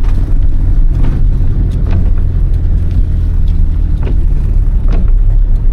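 Heard from inside the cabin, a 1993 Toyota Corolla's 2.0 diesel engine running and its tyres rumbling over a rough, muddy dirt road at low speed. Several short knocks come through now and then.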